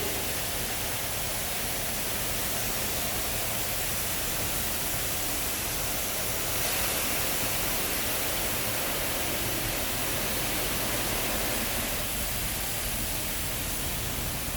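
Car wash spot-free rinse water spraying over a van in a continuous, steady hiss, swelling slightly about seven seconds in.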